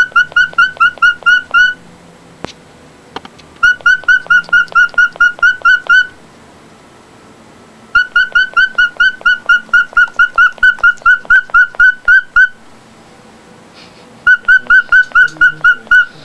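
Bird calling in rapid series of identical short whistled chirps, about four a second, in four bouts with short pauses between them.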